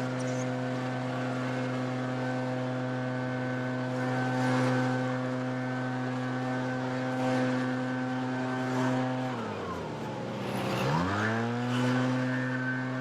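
Backpack leaf blower engine running steadily at full throttle. About nine and a half seconds in, the throttle is let off and the pitch drops sharply, then it revs straight back up to full speed.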